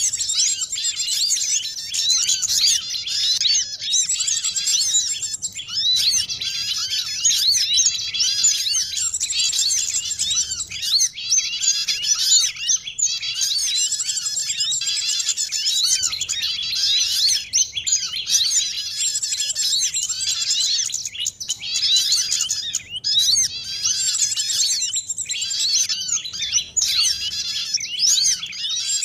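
Dense, unbroken chatter of many small songbirds chirping and trilling over one another, a mixed bird-lure (pikat) recording of little birds such as sunbirds, white-eyes and prinias. The calls are high, quick and rising and falling.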